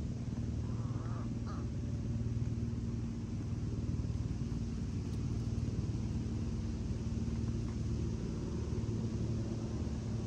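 Steady low motor hum, with a brief crow caw about a second in.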